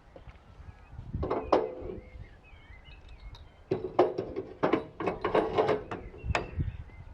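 Clanks and knocks of parts being handled in a workshop: a few about a second in, then a busier run from about four seconds in, each with a short ring. Birds chirp faintly in the background.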